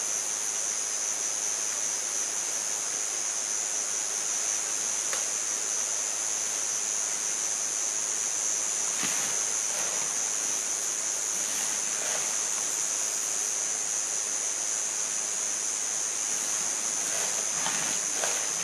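Cicadas in a summer forest, a steady high-pitched drone that never lets up, over a steady rushing hiss. A few soft clicks come in the second half.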